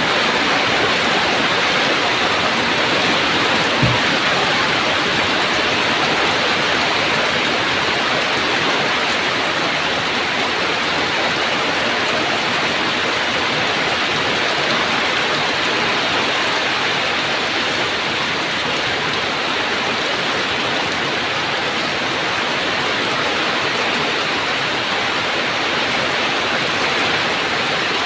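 Heavy rain falling in a steady, dense downpour, with a brief low thump about four seconds in.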